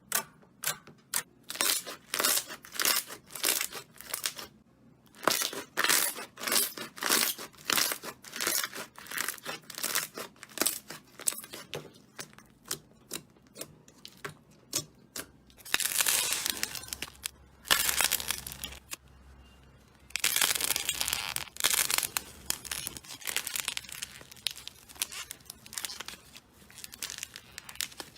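Slime being pressed and squeezed by hand, giving a run of sharp pops and crackles at about two to three a second. Midway these turn into two longer stretches of dense crackling, then go back to scattered pops.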